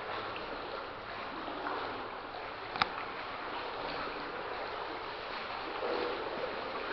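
Wading through knee-deep water: steady sloshing and splashing of legs pushing through it, with one sharp click a little under three seconds in.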